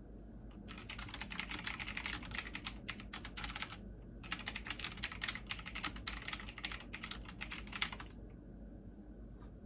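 Computer keyboard typing in two quick runs of rapid key clicks with a brief pause between them, over a faint steady low hum.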